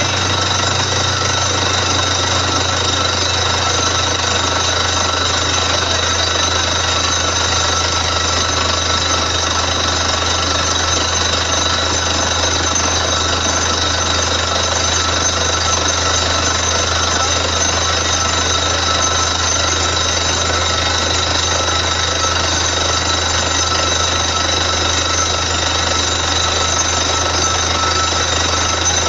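Borewell drilling rig running steadily and loudly, a continuous dense hammering-and-grinding din with a deep drone underneath and a few steady high whines on top.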